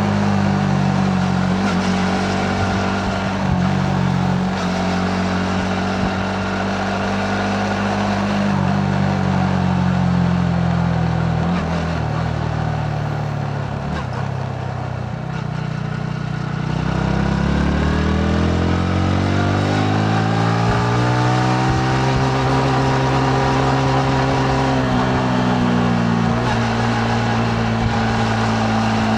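Yamaha MT-15's single-cylinder engine under way, heard from the rider's seat with wind and road noise. The engine note runs steady, drops and eases off about halfway, then rises as the bike accelerates and settles at a steady pitch again.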